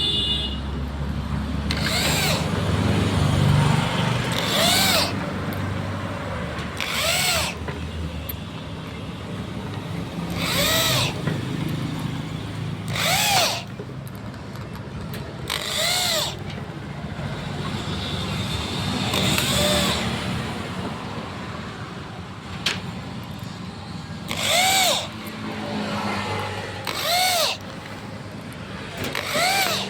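Electric drill run in short bursts every two to four seconds, its pitch rising and falling with each trigger pull, over a steady low hum.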